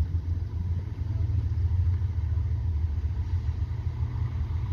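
CSX freight train moving past slowly: a steady low rumble.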